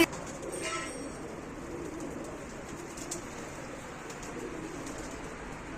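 Domestic pigeons cooing, a low wavering murmur, with a few faint clicks.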